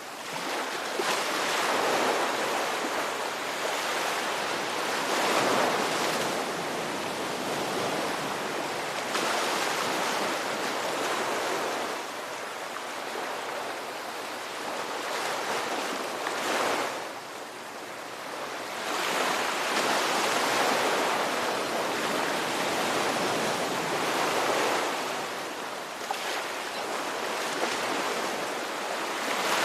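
Ocean waves breaking and washing up the shore, a continuous rush of surf that swells and eases every few seconds.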